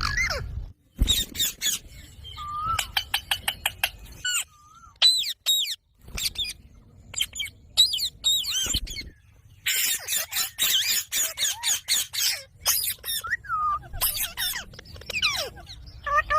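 Pet ringneck parrot calling in rapid bursts of sharp chirps and shrill squawks, with quick clicking runs and pitch-gliding whistled notes, broken by a few short pauses.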